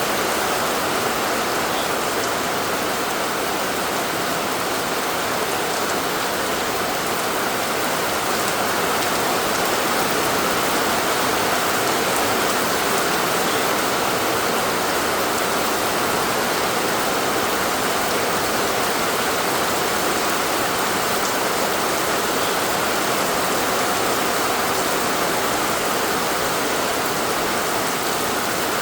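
Steady, heavy rain falling, an even hiss of rain on surfaces that holds level throughout.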